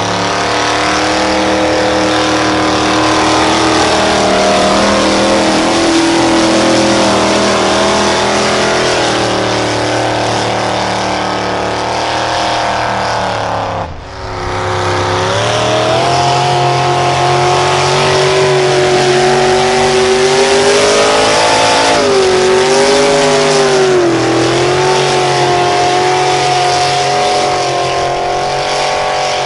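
A pulling vehicle's engine running hard at high revs under load, its pitch wavering up and down as it works. It breaks off abruptly about halfway through and picks up again with a similar engine sound.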